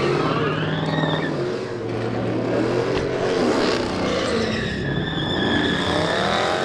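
Car engines revving, their pitch rising and falling, with tires squealing as cars slide through the parking lot.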